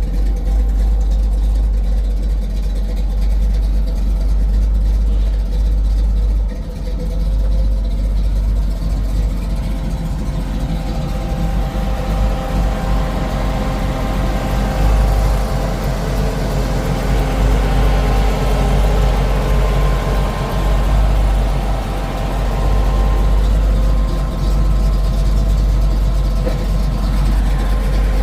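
1968 Pontiac Firebird's engine running steadily with a deep low rumble, its note growing fuller for several seconds in the middle.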